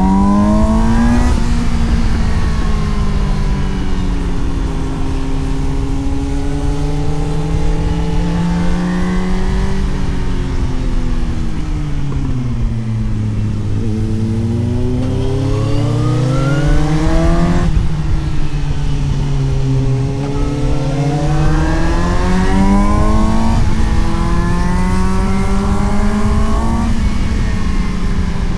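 Suzuki GSX-S750's inline-four engine heard onboard, revving up under throttle and shifting up with sudden drops in pitch, three times. In the middle it winds down off the throttle, then pulls up again. Wind rush runs underneath.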